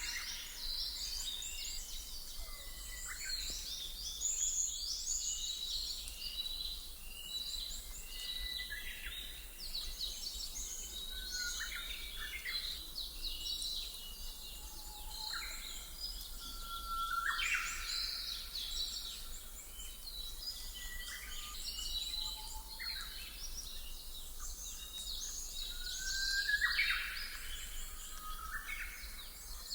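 A chorus of songbirds chirping and trilling continuously, many short overlapping calls, over a faint steady low rumble: a birdsong ambience used as background sound.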